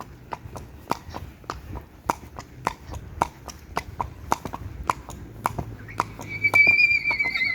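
Horse hooves clip-clopping at a walk in a steady rhythm of about four hoofbeats a second. About six seconds in, a high drawn-out call joins them as a horse starts to whinny.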